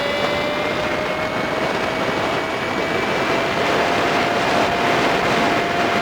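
Honda Super Cub 50's small single-cylinder engine running at steady throttle, with wind and road noise, sped up five times so the engine note is a high steady hum. The note rises slowly while the bike holds a gear.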